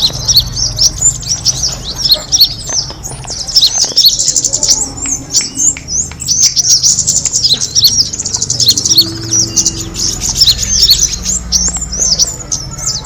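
Small songbirds chirping and trilling rapidly and without a break, high-pitched, with several calls overlapping.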